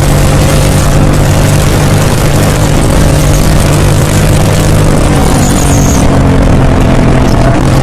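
Hero Splendor single-cylinder motorcycle fitted with a tractor exhaust silencer, its engine running loud and steady with a constant low drone.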